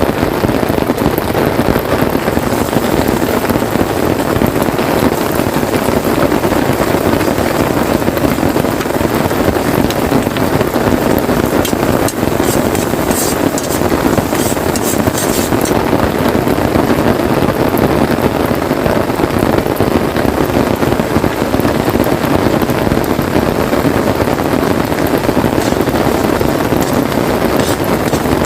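Steady heavy rain on a tent: a dense, even hiss of drops on the fabric, with scattered sharper drop ticks around the middle.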